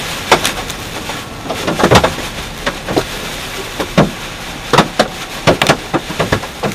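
Large, golf-ball-size hailstones striking the truck in sharp, irregular bangs over a steady rush of rain and hail noise.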